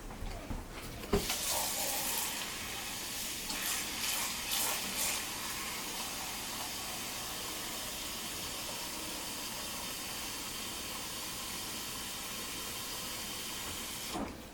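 Water running steadily, starting about a second in and stopping just before the end, with a few brief surges in the first seconds.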